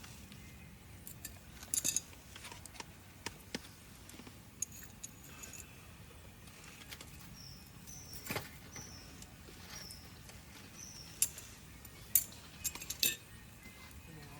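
Campfire wood crackling with sharp pops and snaps at irregular intervals, the loudest cluster near the end. Through the middle, a short high chirp repeats about once a second.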